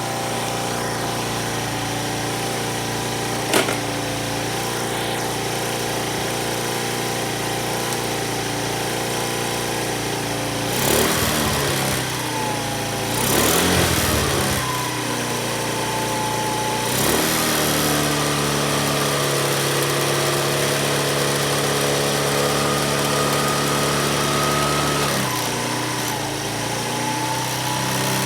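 Honda Dio Cesta AF62 50cc four-stroke scooter engine idling steadily, with one sharp click a few seconds in. About halfway through it is revved up several times, then held at a faster steady speed for several seconds before dropping back to idle near the end.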